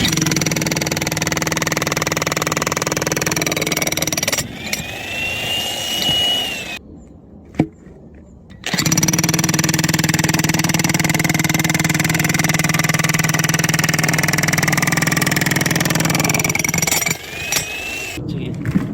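Electric hammer drill (demolition breaker) hammering a bit into a log to split firewood, running in two long runs with a short pause about seven seconds in.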